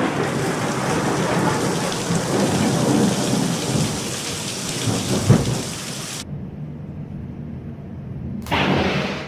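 Thunderstorm: rolling thunder over heavy rain, which cuts off abruptly about six seconds in, leaving a faint low rumble; a short loud burst of storm noise comes in again near the end.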